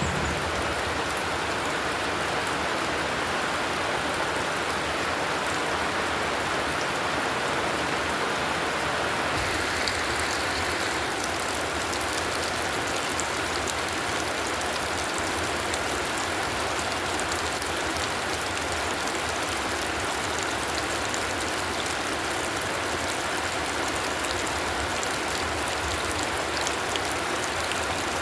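Heavy rain pouring steadily, an even hiss that turns a little brighter about ten seconds in.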